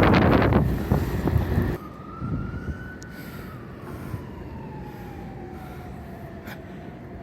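Wind buffeting the microphone, cutting off suddenly about two seconds in. Then an emergency-vehicle siren: one tone that rises briefly, then slowly falls in pitch over several seconds, over a low steady rumble.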